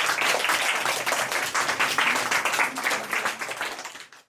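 A group clapping and applauding, many quick claps blending together. It fades out in the last second and stops abruptly.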